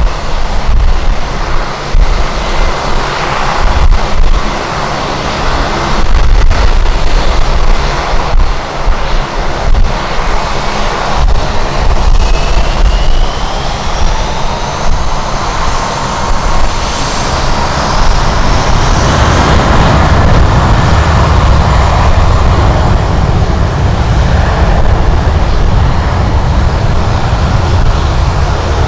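Gusty wind buffeting the microphone while an airliner's jet engines sound: a whine that rises in pitch around the middle, then a steady deep rumble for the rest.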